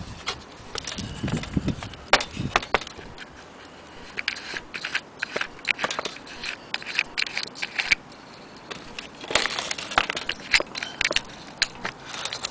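Irregular clicks, taps and short scrapes of small hard objects being handled, coming in clusters with brief lulls about three seconds in and again about eight seconds in.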